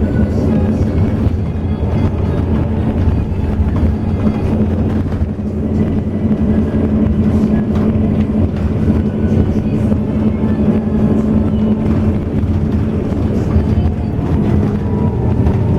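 Intercity bus under way, heard from inside the cabin: a steady engine drone over road noise.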